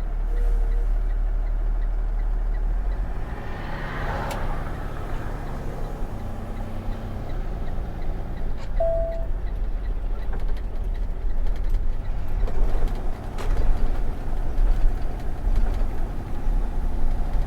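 Box truck driving, heard from inside the cab: a steady low engine and road rumble. Scattered knocks and rattles come in the second half, where the sound grows louder and more uneven.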